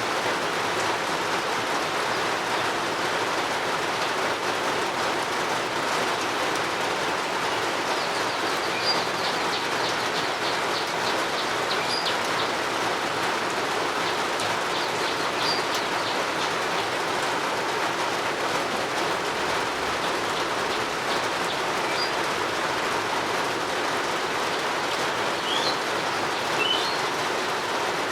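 Steady rain falling without a break. A bird's rapid run of short high chirps sounds about a third of the way in, and a few short rising whistles come near the end.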